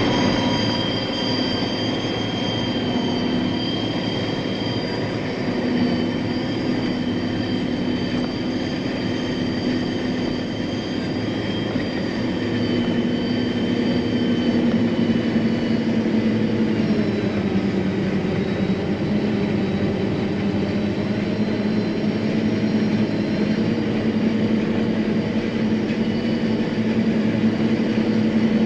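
John Deere self-propelled forage harvester running, heard from inside its cab: a steady machine drone with several high whines held over it.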